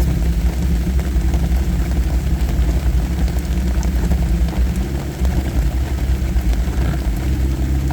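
Jeep engine and drivetrain running at low speed, heard from inside the cabin as a steady low rumble with no sharp events.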